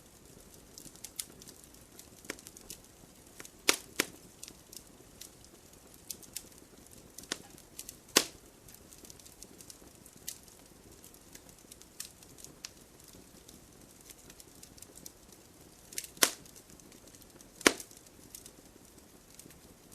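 Wood fire in a fireplace crackling, with irregular sharp pops from the burning logs; a few pops stand out loudest, around 4, 8, 16 and 18 seconds in.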